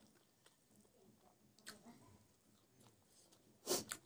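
Close-miked chewing of a mouthful of rice and cooked greens, faint and soft, with one brief, much louder mouth sound near the end.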